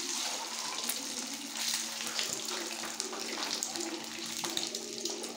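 Whole boiled eggs frying in hot oil in a kadhai: a steady sizzle, with a few light clicks of a spatula turning them.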